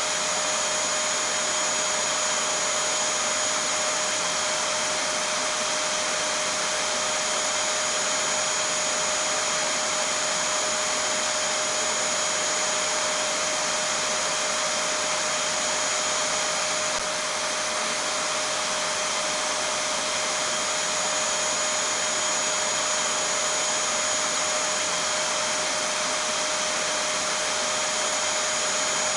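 Vacuum cleaner running steadily: an even rushing noise with a steady whine on top.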